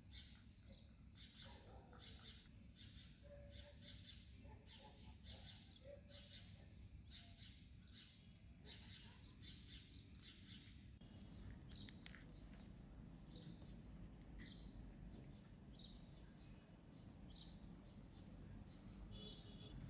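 Faint birds chirping. Short high chirps come about twice a second for the first half, then more sparsely, with a single sharp click about twelve seconds in.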